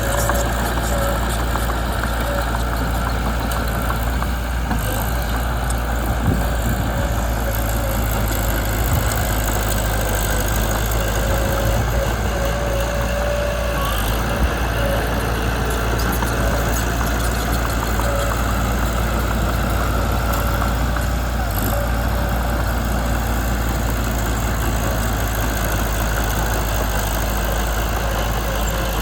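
Mitsubishi BD2 bulldozer's diesel engine running steadily.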